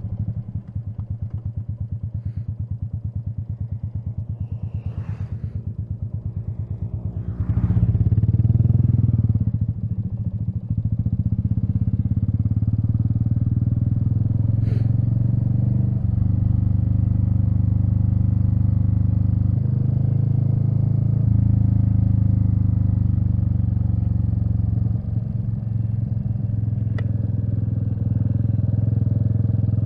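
Royal Enfield Meteor 350's single-cylinder engine running as the motorcycle is ridden: a slow, even beat at low speed for the first seven seconds, then louder and steadier as it pulls away, with brief dips in sound at a few gear changes.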